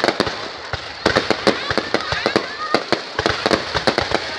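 Fireworks going off in a rapid, irregular string of sharp cracks and pops, sparser for the first second and then dense.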